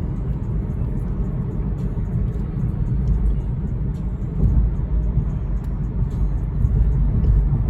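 Steady low rumble of a BMW 4 Series cruising, heard from inside the cabin: engine and road noise with no sharp events.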